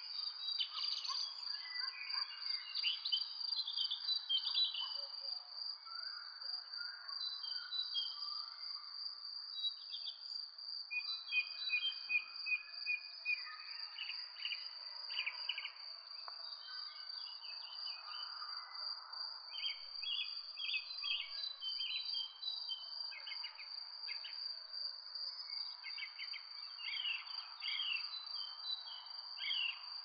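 Songbirds chirping in clusters of quick, repeated short notes, over a steady high-pitched whine and a soft background hiss.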